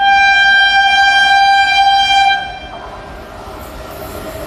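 A train's horn sounds one long, steady blast of a little over two seconds, then cuts off, leaving the quieter running noise of the passing train.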